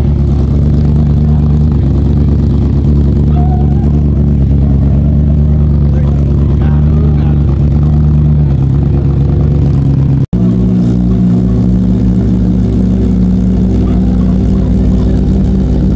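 Motorcycle engine running loud and steady close by, holding an even pitch. About ten seconds in the sound cuts off abruptly and resumes with the engine at a different, steady pitch.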